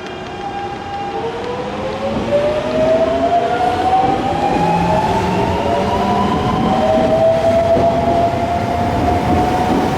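Nankai electric train accelerating along the platform, its traction motors whining in several tones that rise steadily in pitch, growing louder over the rumble of the wheels.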